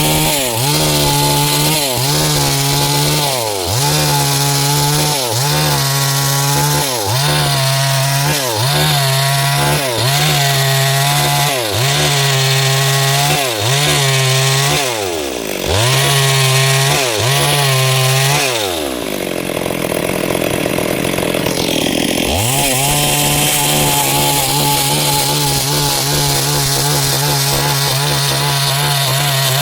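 Stihl MS 382 two-stroke chainsaw cutting wood at high revs. For the first part its pitch dips and recovers about once a second. Near the middle it sags low for a few seconds, then comes back up to a steady high-rev cut.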